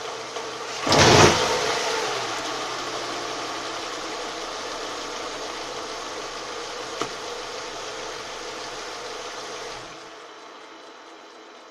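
Renault Mégane engine running at idle, recorded for a knock coming from underneath the car. A loud surge about a second in falls away over the next couple of seconds, a single sharp tick comes near the middle, and the engine's low hum cuts off near the end.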